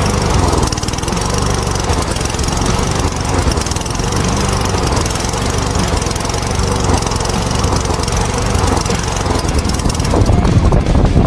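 Briggs & Stratton 5 hp lawnmower engine running steadily at a set speed, getting somewhat louder and rougher near the end.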